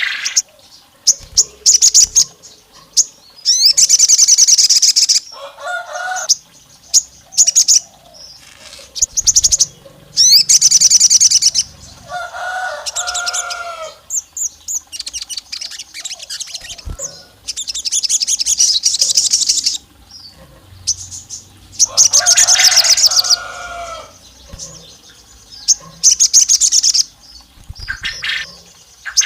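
Sogon (sunbird) in full song: very fast, high-pitched trills of one to two seconds, repeated every few seconds, with short sharp chirps between them and a few lower two-note phrases. This is the long 'nembak' trilling, lure song used to provoke rival males.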